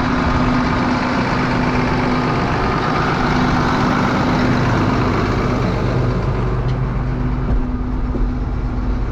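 John Deere 7710 tractor's diesel engine running steadily.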